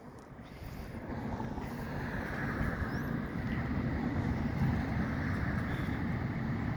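Engine and road noise of the 2023 Spartan Gladiator/Smeal aerial ladder truck approaching, growing louder over the first couple of seconds and then holding steady.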